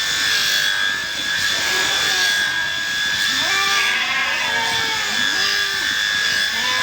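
Electric sheep-shearing handpiece running with a steady high-pitched buzzing whine, with short pitched calls over it.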